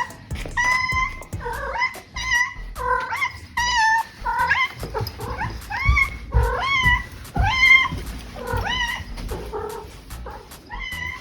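A cat meowing over and over, about a dozen short, high-pitched meows that each rise and fall in pitch, as if asking for something.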